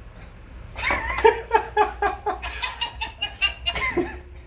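A person laughing: a run of short, high-pitched bursts of laughter starting about a second in and lasting some three seconds.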